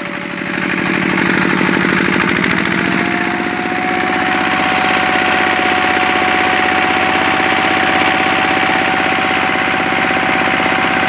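Engine brought up from idle to high revs and held there, with a steady whine, like a turbocharger, that climbs in pitch over the first few seconds and then holds. The whine is absent at idle; the owner suspects a crankshaft bearing on the flywheel side.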